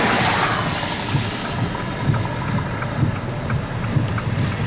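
Wind gusting across the microphone, an irregular low buffeting rumble under a steady hiss.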